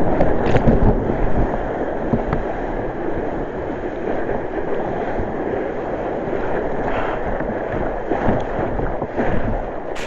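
Steady rushing noise of surf and wind buffeting the microphone, with no clear single event.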